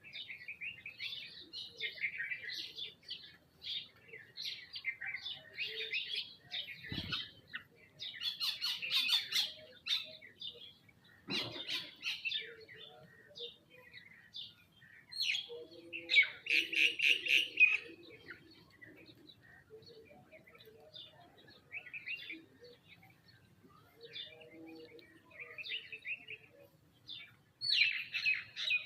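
Sparrows and mynas chirping and calling over one another in a continuous busy chatter while feeding. A louder run of calls comes a little past the middle, and there are a couple of sharp clicks before it.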